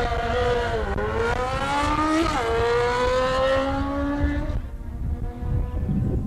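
Fox-body Ford Mustang's engine revving hard in a drag-strip burnout as the rear tyres spin and smoke. The pitch dips, climbs, drops sharply about two and a half seconds in, climbs again, and the revving cuts off about four and a half seconds in.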